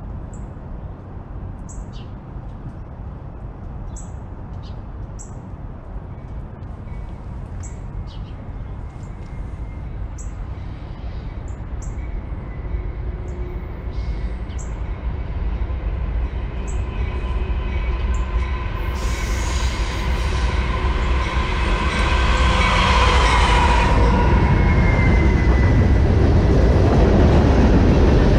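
Train approaching: a low rumble grows steadily louder, and about two-thirds in high steady tones join it, some sliding down in pitch. Birds chirp over the rumble in the first half.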